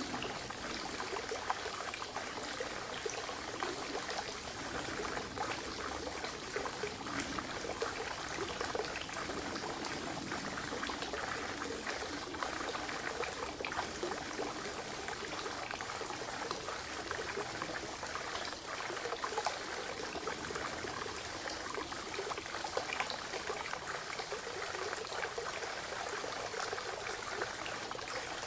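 Spring water trickling and splashing steadily into a forest pond, a continuous babble of small splashes.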